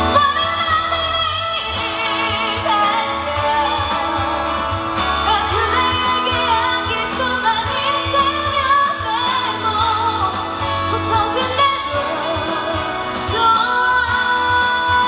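A female vocalist singing a pop-rock song live over a full band accompaniment. Her voice wavers with vibrato, and she holds a long note near the end.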